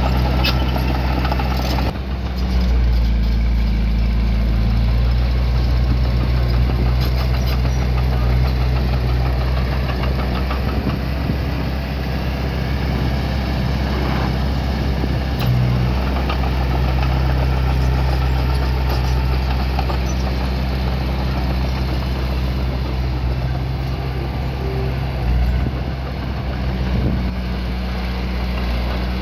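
Diesel engine of earthmoving machinery running steadily at an even pitch, with a few brief knocks.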